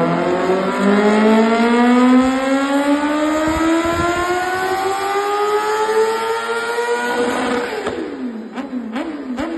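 Kawasaki ZX-10R inline-four through an Arrow exhaust, revs climbing steadily under throttle for about seven seconds. Then the throttle shuts, the revs drop and rise and fall quickly, and the exhaust pops and crackles.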